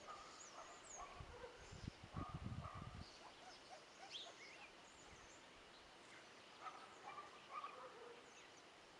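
Faint outdoor ambience with scattered short bird chirps, plus a few low rumbles between about one and three seconds in.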